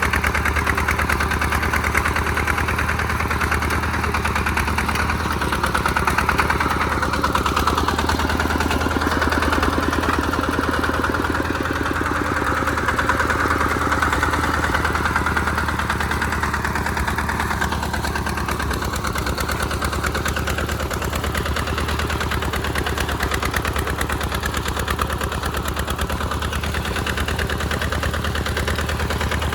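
Single-cylinder diesel engine of a tractor powered by an RT140 Plus, running steadily while plowing in mud, with fast even firing pulses.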